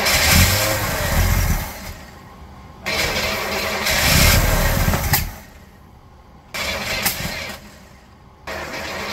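Oldsmobile Cutlass engine, unstarted for decades, being cranked over in four bursts with short pauses between them without settling into running.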